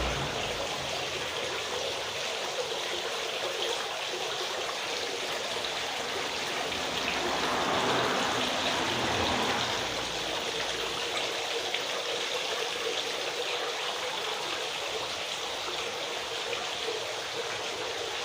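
Water steadily trickling and splashing over a small decorative marble fountain.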